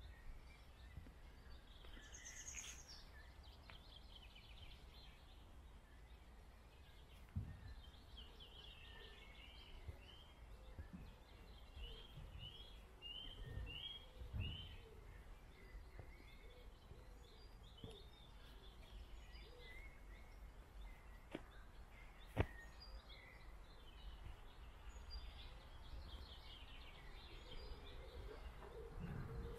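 Faint birdsong from several small birds, with a run of short repeated notes about halfway through, over a low steady outdoor rumble. A few soft low thuds and one sharp click about three-quarters in.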